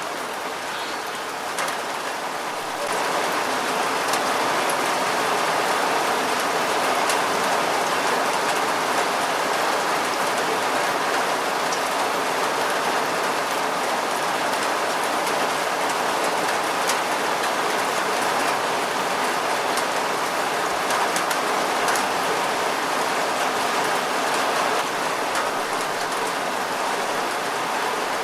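Steady rain falling, with scattered sharp clicks of single drops striking close by. It grows louder about three seconds in and stays even after that.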